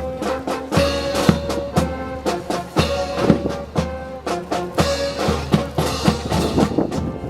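Brass band playing a march: held brass notes over regular drum strokes.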